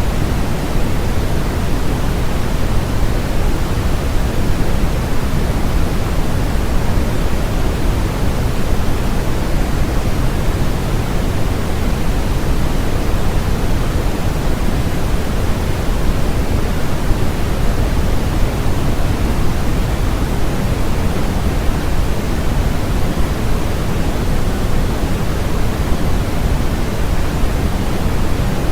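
Continuous electronically generated noise of the kind sold as white noise for sleep, an even, unchanging hiss weighted toward the low end, with no events or pitch.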